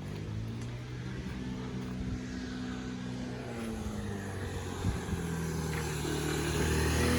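A motor vehicle's engine running at a steady pitch and coming closer, growing louder toward the end.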